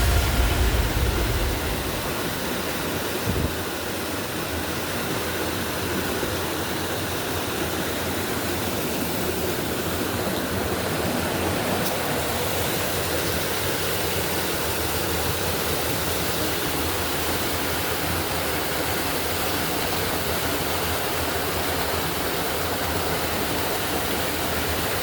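Steady, even rushing noise with no rhythm or pitch; the tail of an electronic dance track fades out in the first second or two.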